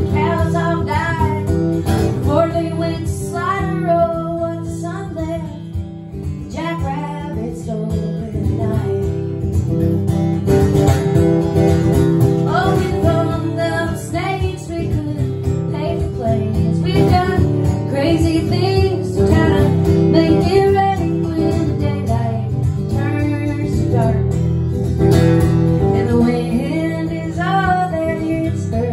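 Woman singing a song over an acoustic guitar played alongside, with the voice carrying the melody throughout.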